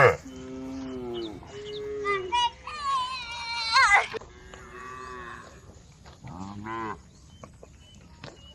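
Cattle mooing in a series of separate calls. A few low moos come first, then a higher call that rises in pitch, and then another short low moo.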